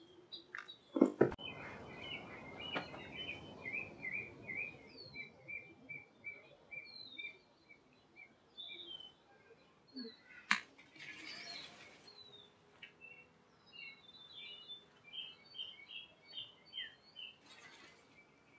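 Small birds chirping in short repeated notes, with an even run of about three chirps a second in the first few seconds. A sharp knock comes about a second in and a click about ten seconds in, with brief rustles.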